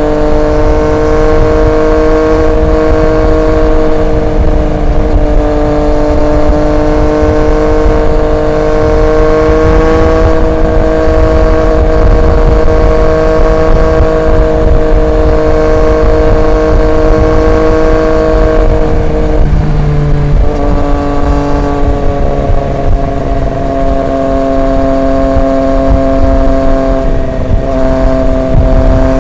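Triumph Street Triple 765 RX's three-cylinder engine through an SC Project S1 exhaust, cruising at a steady note. About two-thirds of the way through, the note drops in pitch and holds lower.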